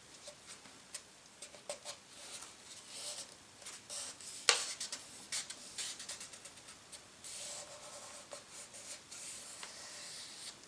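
Paper being folded and creased by hand: soft rustling and rubbing with scattered crinkles, and one sharper crackle about four and a half seconds in.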